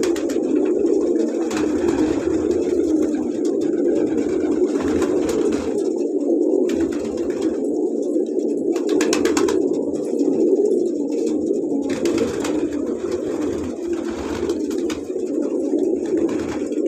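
Homing pigeons cooing together, many low coos overlapping into one continuous sound with no break.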